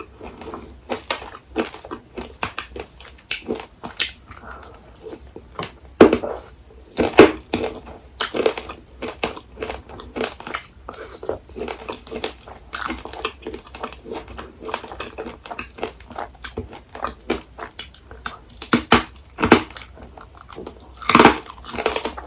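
Close-up crunching and chewing of apricot tanghulu: the hard candied sugar shell cracks between the teeth in irregular crackles over wet chewing. A few louder sharp crunches come about six, seven and twenty-one seconds in.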